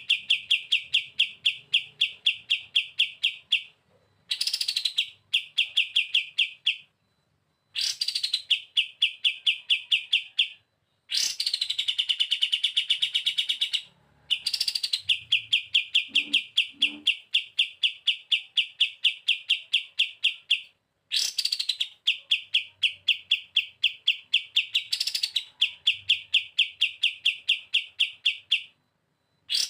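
Kapas tembak singing its 'bren' song: repeated phrases, each opening with a sharp rising note and running into a long, fast rattling trill of clipped notes at about five a second. Each phrase lasts a few seconds, with short pauses between them.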